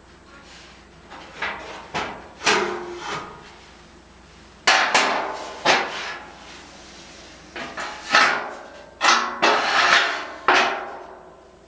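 Irregular metallic knocks and bangs, about a dozen, each ringing briefly, from the dryer's sheet-metal cabinet and parts being handled and shifted during disassembly.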